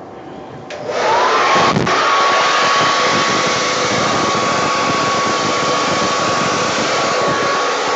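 Hair dryer switched on about a second in, its motor whine rising quickly to a steady pitch over a loud rush of blown air, used to push wet paint across the canvas in a Dutch pour.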